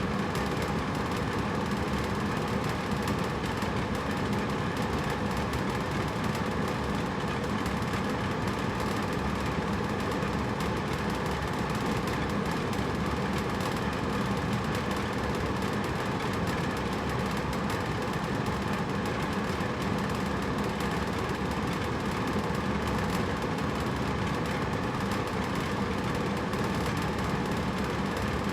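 Hotel room air conditioner running steadily: an even low hum with a whoosh of moving air.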